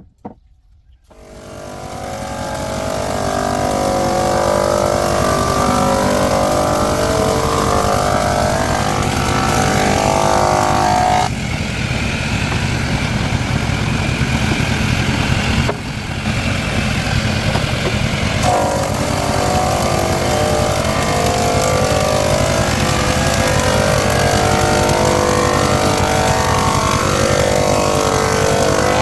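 An electric woodworking machine's motor starting up, spinning up over a few seconds, then running steadily and loudly, its pitch pattern shifting a few times as the load changes.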